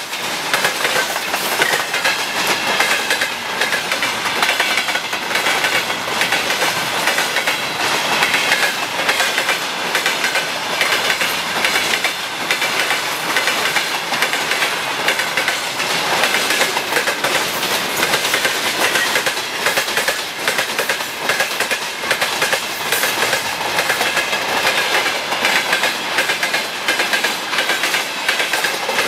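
Wagons of a freight train hauled by a VL10U electric locomotive rolling steadily past, wheels clicking rapidly over the rail joints, with a high ringing tone over the rumble.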